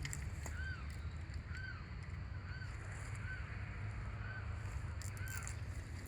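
A bird calling a short, clear, arched note over and over, six times at about one-second intervals, over a steady low rumble.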